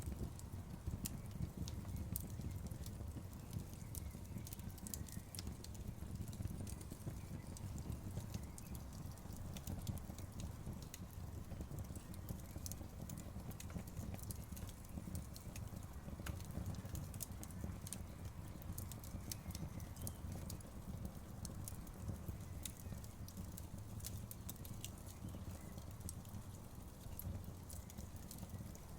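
Campfire burning: frequent sharp crackles and pops over a steady low rumble of the flames.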